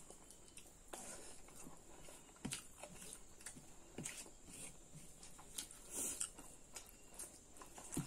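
Two people chewing rice and pork curry eaten by hand: soft, scattered mouth smacks and clicks, about two or three a second.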